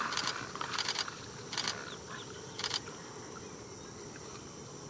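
Steady high-pitched insect drone, with a few short sharp noises in the first three seconds.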